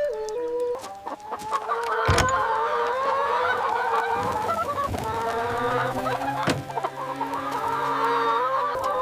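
A flock of chickens clucking, many birds calling over one another, with a couple of sharp knocks among them.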